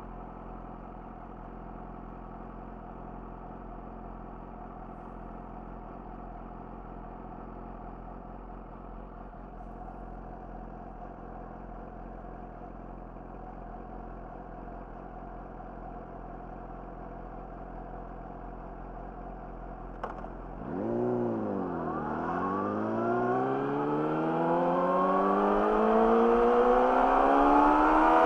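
Yamaha YZF-R6's inline-four engine with an Akrapovic slip-on exhaust idling steadily, then a click about 20 seconds in as it is put into gear. The revs dip briefly and then climb steadily and louder as the bike pulls away and accelerates.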